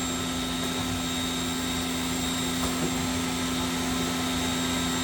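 Haas SL-10 CNC lathe spindle running steadily at 5,000 RPM: an even whine, a high tone over a lower hum.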